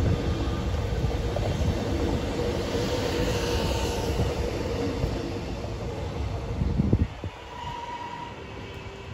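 X'Trapolis electric multiple-unit train running past close by: wheels rumbling on the rails under a steady motor hum, with faint high wheel squeal. About seven seconds in, after a low thump, the sound drops sharply to the quieter running of a train in the distance.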